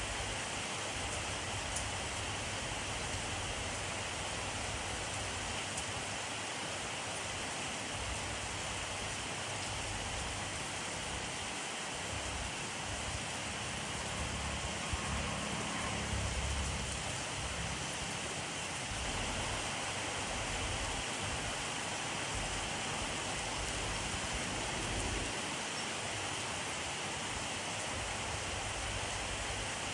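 Steady rainfall: a dense, even hiss of rain on surfaces. A soft low rumble swells briefly about halfway through.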